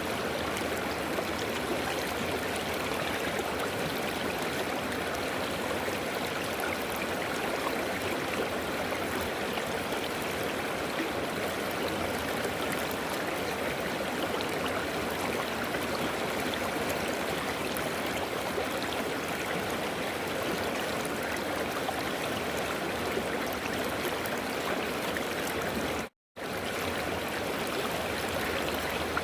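River water flowing in a steady rush. Near the end it cuts out to silence for a split second, then resumes.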